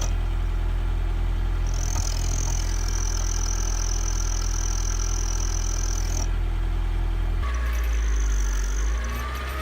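Petrol car engine idling with a thin, steady high whistle from a cheap turbo-sound whistle fitted into the exhaust tailpipe. The whistle drops out for a moment near the start and again after about six seconds, and the engine note shifts about seven and a half seconds in.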